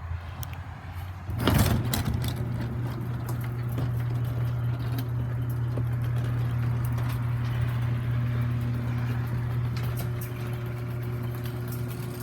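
Garage door opener starting with a clunk about a second in, then its motor running with a steady low hum as the door travels.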